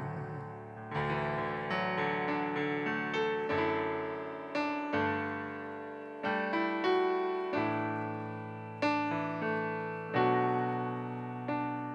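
Keyboard with a piano sound playing slow worship-song chords, a new chord struck every second or two and left to ring and fade.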